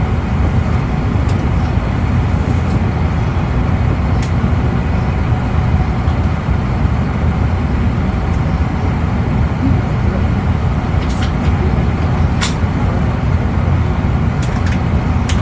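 Interior running noise of an E259 series EMU motor car (MoHa E259) under way: a steady low rumble of the wheels on the rails and the running gear. A few faint clicks come in the second half.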